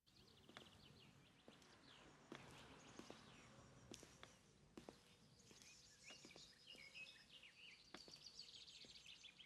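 Faint bird chirps and trills over a quiet outdoor background, with a few scattered sharp clicks.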